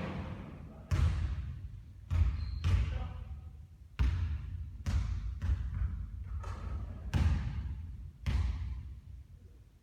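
Basketball bouncing on a court, about ten separate heavy thuds at uneven intervals, each trailing off briefly.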